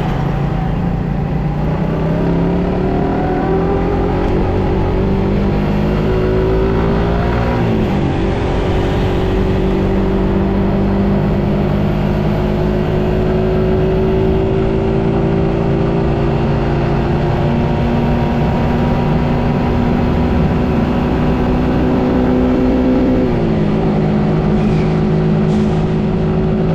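Suzuki GSX-S150 motorcycle's single-cylinder engine running under way, seen from the rider's seat, its note climbing slowly as it pulls. The engine note dips sharply and picks up again twice, about eight seconds in and near the end.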